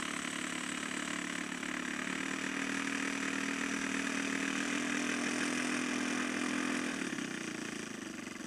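Engine of a 1/3-scale radio-controlled model airplane running at low throttle while taxiing, its pitch stepping up slightly twice and then dropping back near the end.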